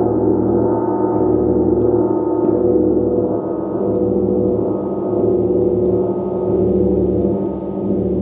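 Gong sounding in a continuous, dense wash of many overlapping sustained tones, swelling and easing every second or two as it is kept going.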